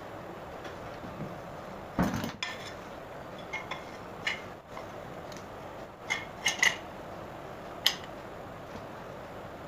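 Metal tools and alternator parts clinking and knocking as they are handled. There is one heavier knock about two seconds in, then scattered light, ringing clinks, a quick cluster of three past the middle, and a last sharp clink near the end, all over a steady background hiss.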